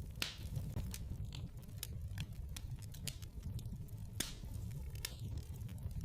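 Wood fire burning in a fireplace: a steady low rumble of flames with irregular crackles and pops, the sharpest pops just after the start and about four seconds in.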